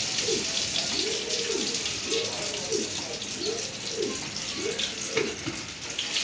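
Batter-coated chicken drumsticks frying in hot oil in a pan, a steady sizzling hiss.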